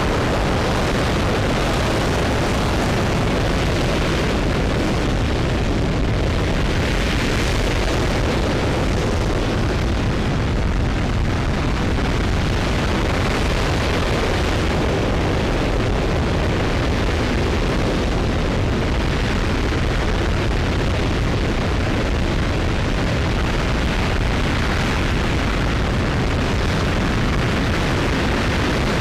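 RS-25 liquid-hydrogen/liquid-oxygen rocket engine firing steadily in a ground hot-fire test: a loud, unbroken roar with a deep low end that holds the same level throughout.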